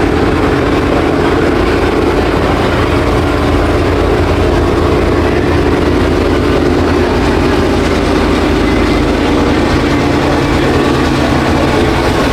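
A motor vehicle's engine running, a loud, steady drone that holds an even pitch.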